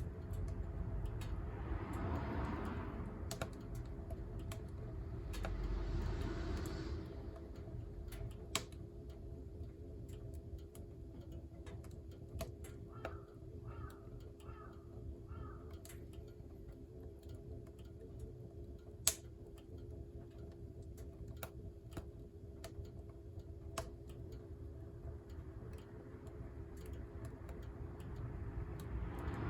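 Wood fire burning in a wood-burning stove, crackling with scattered sharp pops at irregular intervals, over a steady low hum.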